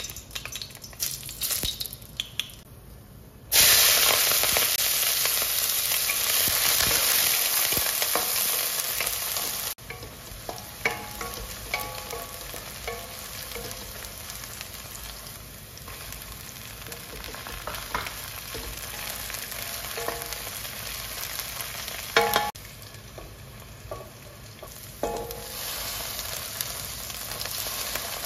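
Hot oil sizzling in a stainless steel wok. Light crackling as dried red chillies fry, then about three seconds in a sudden loud sizzle as chopped onion goes into the oil. After several seconds it settles into a steady, quieter fry with the scrape and knock of a wooden spatula stirring.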